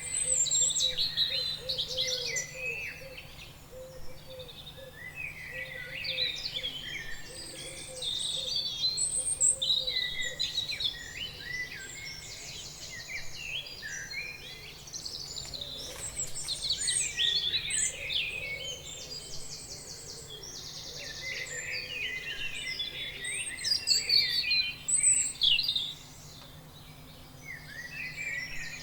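Several birds singing and chirping at once, a dense chorus of quick chirps, whistles and fast buzzy trills, over a faint steady hum.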